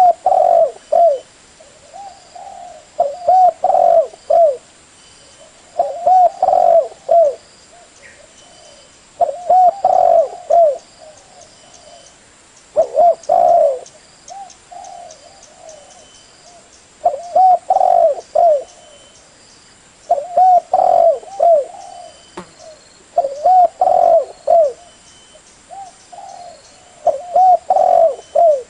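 Spotted dove cooing: a phrase of several low, rounded coo notes repeated about every three to four seconds, the call used to lure doves in.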